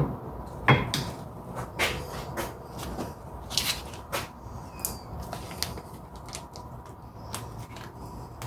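Irregular clicks, clinks and knocks of hard objects being handled and set down, about a dozen in all, the loudest a little under a second in.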